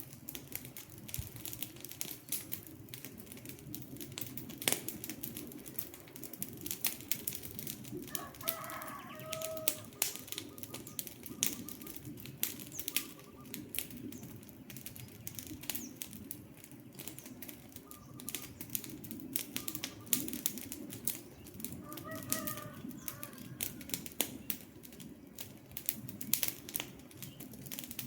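Wood fire crackling with frequent sharp pops over a low steady rush of burning. A bird calls twice in short phrases, about eight seconds in and again about twenty-two seconds in.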